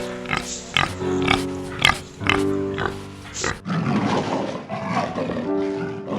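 Background piano music with an animal's sounds under it: short sharp clicks in the first half, then a rough, noisy stretch of animal sound from about three and a half seconds in.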